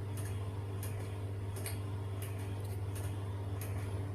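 Soft irregular clicks of chewing and mouth sounds over a steady low hum.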